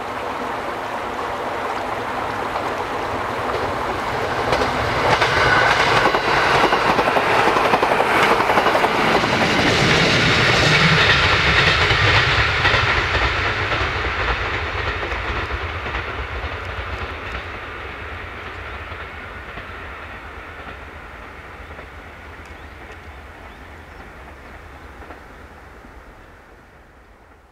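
JR 205-series electric multiple unit passing on the line, its wheels clacking over the rail joints; the sound builds to a peak around the middle and then fades steadily as the train runs off.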